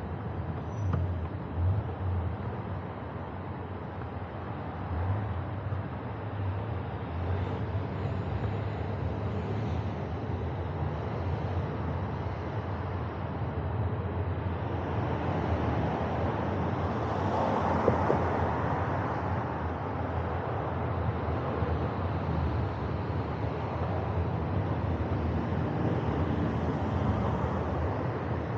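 Steady rush of wind and road noise on an action camera's microphone while cycling, with a low rumble throughout. It swells for a couple of seconds about two-thirds of the way through.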